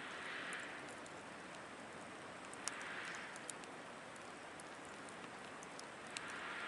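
Wood fire burning in a fire stand: a steady hiss with scattered small crackles and pops, swelling softly about every three seconds. A big log has just gone on and is smoking heavily before it catches.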